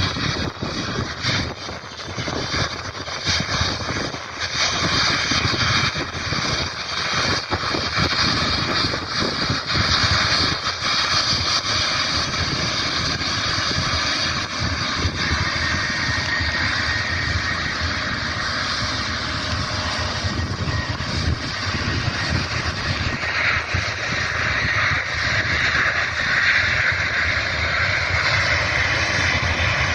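Airbus A350's Rolls-Royce Trent XWB jet engines running at taxi power: a steady rush of jet noise with a whine that grows louder through the second half. Wind buffets the microphone during the first ten seconds.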